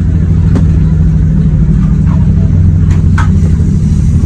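Passenger train running, heard from inside the carriage: a loud, steady low rumble with a few sharp clicks, one about half a second in and two close together around three seconds in.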